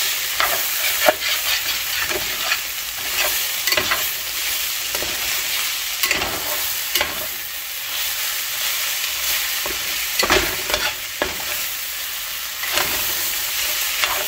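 Sliced bitter melon (carilla) sizzling as it fries in a stainless steel pot, with a steady hiss. A metal spoon stirring and turning it scrapes and clinks against the pot at irregular moments, most often about ten seconds in.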